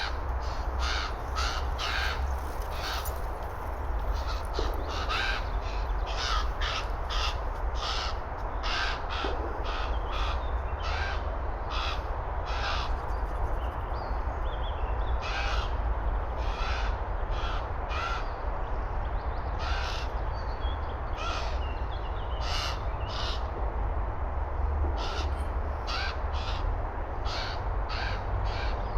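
Common ravens calling over and over in short calls, about one or two a second with a few brief lulls: a raven family squabbling.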